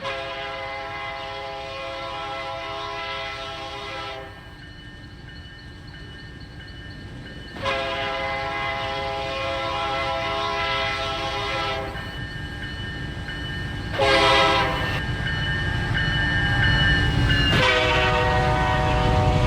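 Locomotive air horn sounding the grade-crossing signal, long, long, short, long, each blast a chord of several notes. Underneath, the train's rumble grows louder as it approaches.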